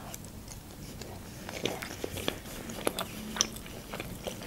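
Close-miked chewing of a bite of crispy fried chicken, with a run of short, sharp crunches and wet mouth clicks from about a second and a half in.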